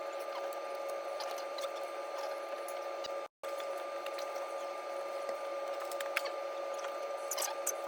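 A steady background hum with a fainter higher tone above it, with a few scattered light clicks and taps. The sound cuts out completely for a moment about three seconds in.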